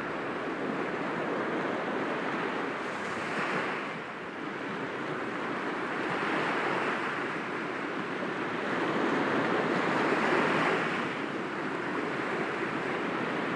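Sea waves breaking gently against rocks, a steady wash of surf that swells every few seconds.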